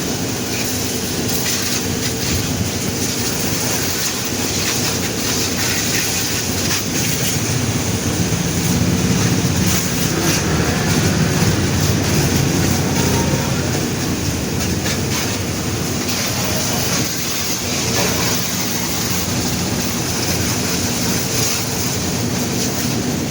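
Car wash equipment running: a steady motor or pump hum under a continuous rush of spraying water, swelling a little about halfway through.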